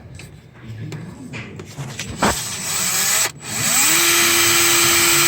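Power drill with a left-handed bit drilling out a broken EGR bolt. The drill gives a short burst a little over two seconds in, then spins up with a rising whine and runs steadily under load.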